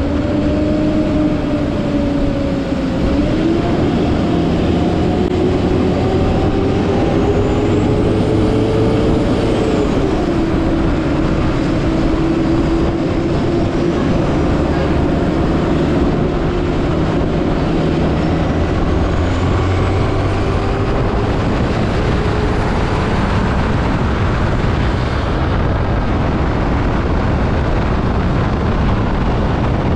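Yamaha WR155 single-cylinder motorcycle engine running while riding. Its pitch climbs for several seconds, drops about ten seconds in, then runs fairly even, under a heavy rush of wind noise.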